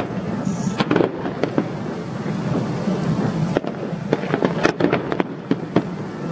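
Aerial fireworks exploding in an irregular run of sharp bangs and crackles, over a steady low background rumble.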